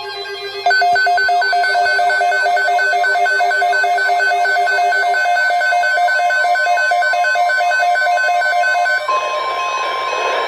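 An electronic weather-radio alarm beeping in rapid, even pulses of two tones, about three a second, over fading keyboard music. About nine seconds in it gives way to a steady single alert tone over radio static, the NOAA Weather Radio alarm tone that comes before a broadcast alert.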